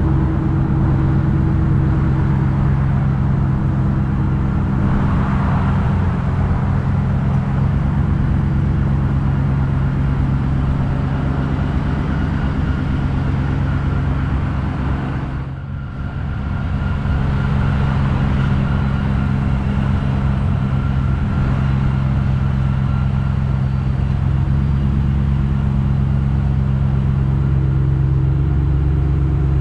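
Steady idle of a 2016 Ford F-150 Shelby's V8 engine, an even low hum that dips briefly about halfway through.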